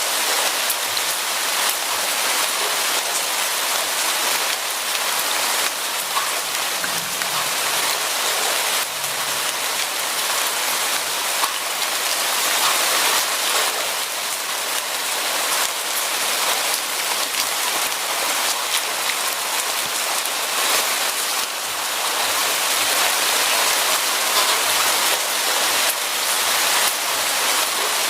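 Steady rain falling, a dense even hiss of many drops with fine individual drop ticks.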